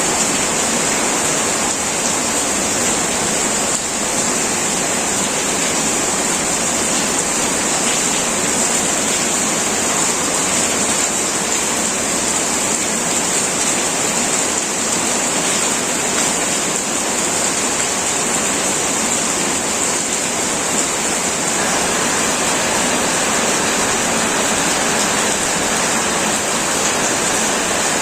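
Heavy rain pouring on a metal roof, a steady, dense hiss with no let-up.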